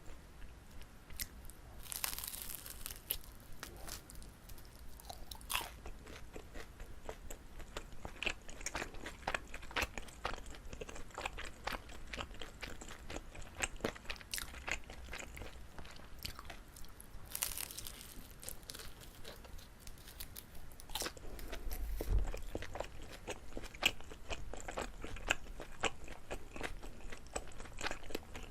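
Close-miked chewing of chewy Korean rice cake (jijilkutteok) filled with gondre greens: wet, sticky mouth clicks come thick and fast, with a couple of louder crackly bites about two seconds in and again just past halfway.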